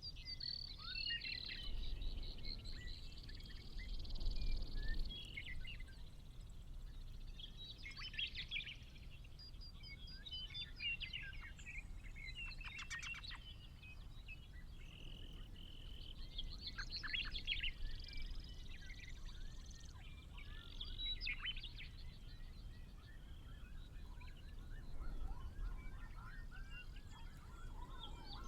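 Several small songbirds singing and chirping, with quick trills and calls overlapping, over a low steady rumble.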